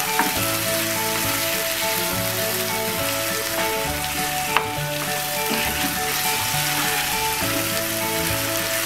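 Chicken pieces in spiced masala sizzling in a non-stick kadai as they are sautéed and stirred with a wooden spatula over lowered heat, at the koshano (braise-frying) stage. Soft background music with held notes plays underneath, and a single sharp tap comes about halfway through.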